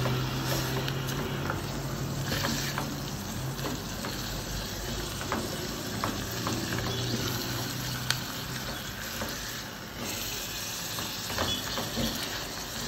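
Raw ground beef and onions frying in margarine in a stainless steel pot, sizzling gently while a silicone spatula stirs them, with scattered light scrapes and clicks against the pot. A low steady hum runs underneath for the first three seconds and returns briefly midway.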